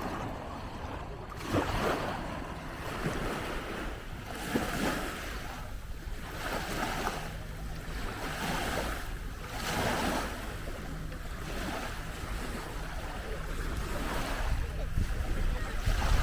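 Small waves washing up on a beach in irregular swells every second or two, with low wind rumble on the microphone.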